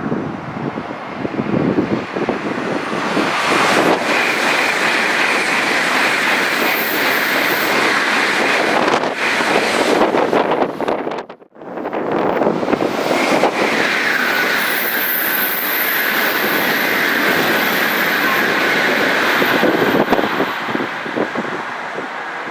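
Shinkansen Series 300 bullet trains passing close by at speed: a loud rushing with a steady high whine running through it. It breaks off suddenly about eleven seconds in, then a second pass follows.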